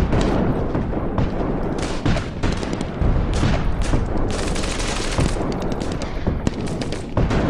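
Airsoft guns firing rapid, overlapping bursts, a continuous rattle of shots.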